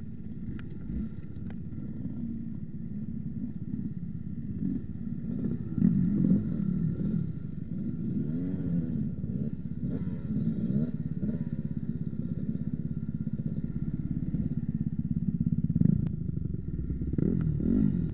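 Motorcycle engine running as it is ridden, the revs rising and falling again and again, loudest about six seconds in and again near sixteen seconds.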